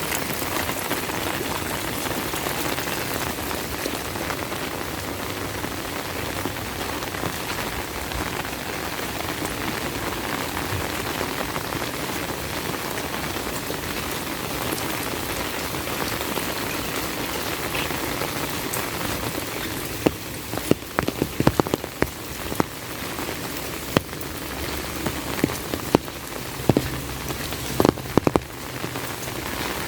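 Heavy rain falling with a steady hiss. About two-thirds of the way in, a run of sharp, irregular taps rises above it.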